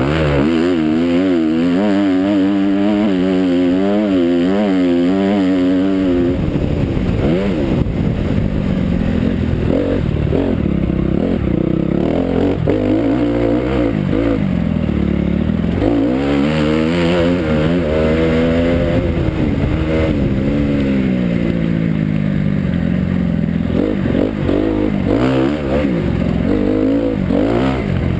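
Motocross bike engine revving up and down as it is ridden round the track, with quick throttle wobbles for the first six seconds and longer rises and falls in pitch after that.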